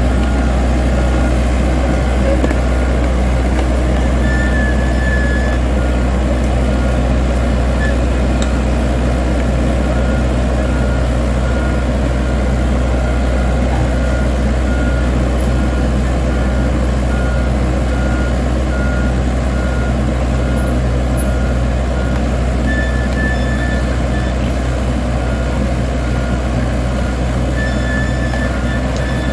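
Dump truck engine running steadily. Its reversing beeper sounds a repeated high beep on and off: at the start, then again for about ten seconds in the middle.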